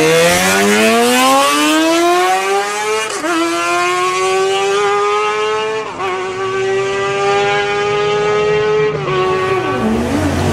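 Sport motorcycle engine accelerating hard through the gears: its pitch climbs, drops briefly at upshifts about three and six seconds in, holds steady, then falls away near the end.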